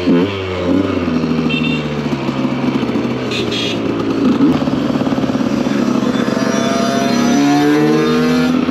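Two-stroke supermoto motorcycle engine running hard at speed, its note holding fairly steady, then revving up with a rising pitch near the end.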